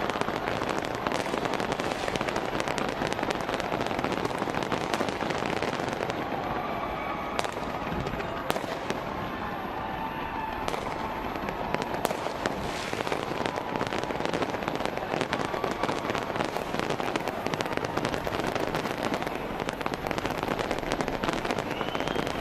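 Fireworks display: dense, continuous crackling and popping of many shells bursting, with sharper single bangs scattered through. It thins a little in the middle, then builds again.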